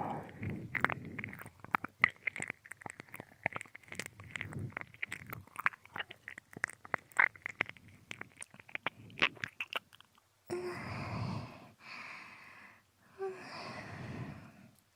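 Close binaural ASMR ear-licking: dense wet mouth clicks and tongue and lip smacks for about ten seconds, then a few slow, long breaths into the microphone near the end.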